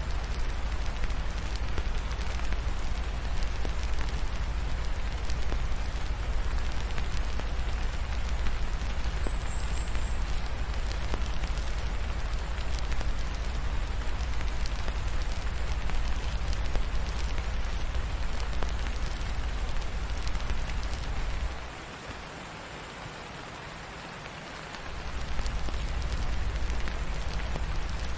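Steady rain mixed with a crackling fireplace, over a deep low rumble. About 22 seconds in the low rumble drops away for roughly three seconds, then returns.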